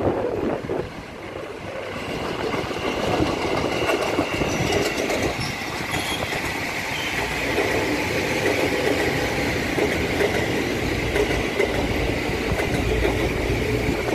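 KRL electric commuter train running past on the rails, a continuous clatter with a steady high whine. It grows louder over the first few seconds, and a deeper rumble comes up near the end.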